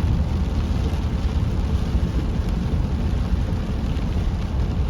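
Heavy rain pouring down on a slowly moving car, heard from inside the cabin, over a steady low rumble of road and engine noise.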